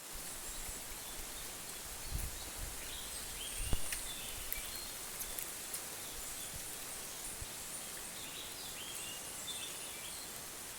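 Rainforest ambience: a steady high hum of insects, with short bird chirps twice. A few low thumps are mixed in, the loudest just under four seconds in.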